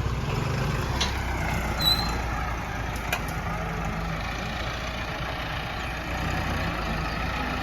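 Massey Ferguson 385 tractor's diesel engine running steadily, with a couple of short clicks and a brief high chirp about two seconds in.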